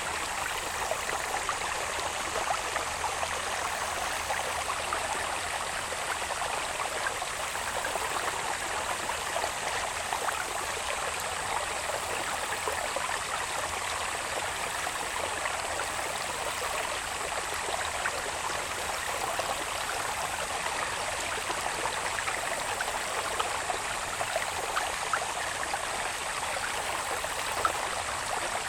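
Water babbling steadily along a small irrigation channel running down from the hills, a continuous trickling rush full of small splashes. Insects keep up a thin, steady high note over it.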